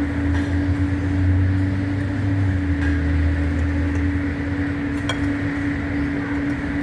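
Steady mechanical hum with a constant droning tone, and a few light clinks of a utensil against a dish while eating.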